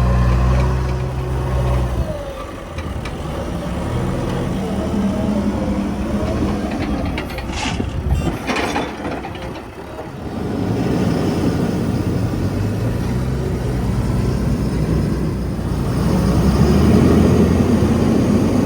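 Heavy diesel engines of backhoe loaders and trucks running, their pitch rising and falling as they work. A short hiss comes about eight seconds in.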